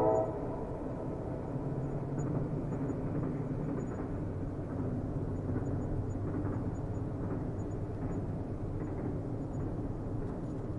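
Steady low rumble of a distant train running on the rails, just after the train's horn cuts off at the very start.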